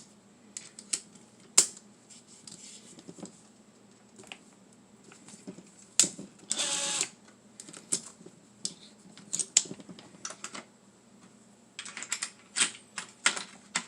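Scattered sharp clicks and clacks of impact sockets and bits being handled and set into their storage box. There is a short rattling scrape about halfway through and a quick run of clicks near the end.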